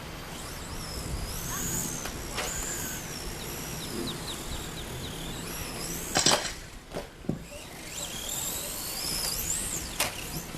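Electric RC stadium trucks running on a dirt track, their motors whining high and sliding up and down in pitch as they speed up and slow down. A sharp clack about six seconds in and another near the end.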